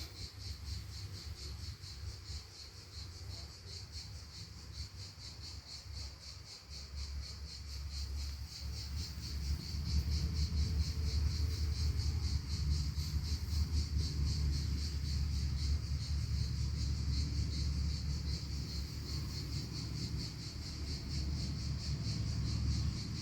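Insects chirring in a steady, fast pulsing rhythm, high-pitched, over a low background rumble that grows louder about ten seconds in.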